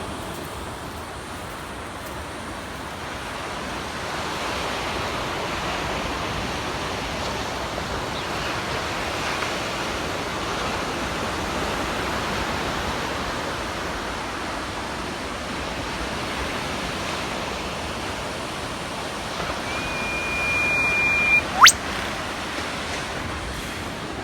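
Ocean surf washing steadily. Near the end an eastern whipbird calls loudly: a held whistle lasting about two seconds, then a sharp whip-crack that sweeps steeply upward.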